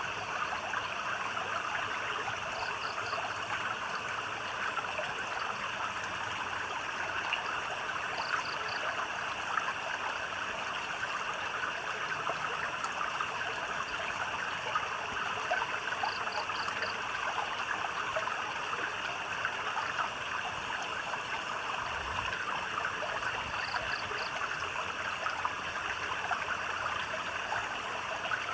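Stream water trickling and burbling steadily. Over it, a night animal's short high trill of three or four quick pulses sounds four times, several seconds apart.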